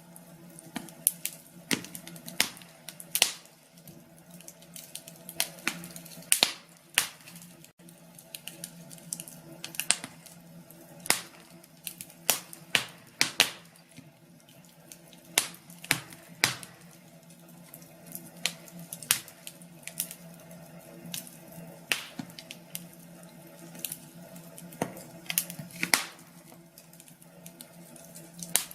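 Wood fire in a fireplace crackling, with irregular sharp pops, some of them loud, over a faint steady low hum.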